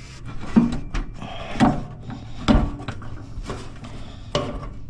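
A series of about five separate knocks and clunks, roughly one a second, as hands and tools work at a hose in a cramped spot on the vehicle, trying to pull it off.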